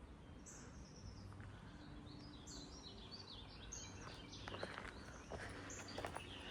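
A small bird calling a quick run of short high chirps, followed by a few footsteps on rocky ground near the end.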